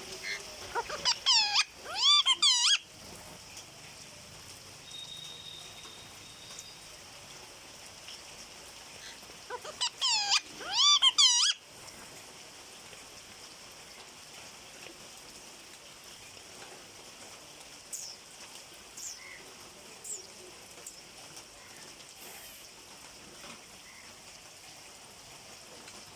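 Pet parrot giving two loud bouts of rapid, repeated screeching calls, each lasting a second or two, about ten seconds apart, with a few faint short chirps later.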